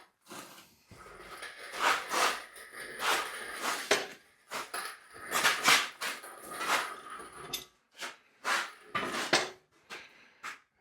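A series of irregular knocks and clanks, a dozen or so sharp hits at uneven spacing, some ringing briefly, from hands-on work with tools and parts during an engine pull.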